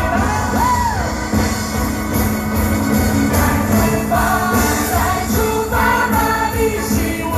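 A choir singing a pop song over a steady beat, with regular bright percussion strokes.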